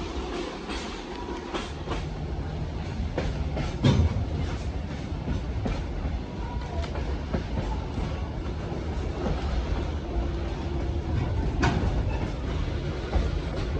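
Passenger train running, heard from on board: a steady low rumble with irregular clacking of wheels over the rails and a louder knock about four seconds in.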